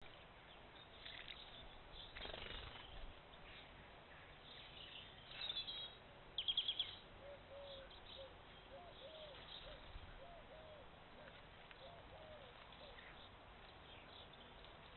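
Faint birdsong and calls: scattered high chirps, a quick burst of about six sharp notes around six and a half seconds in, then a string of soft, lower, curving notes.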